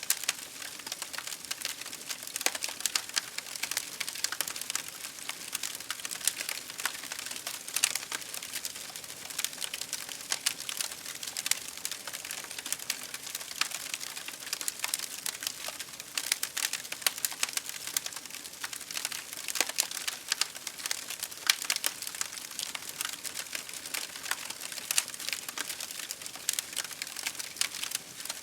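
Campfire crackling, with dense, irregular pops and snaps over a steady hiss of rain.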